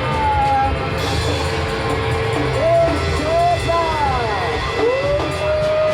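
Live rock band playing a loud instrumental passage, with held high notes sliding up and down in pitch over the top.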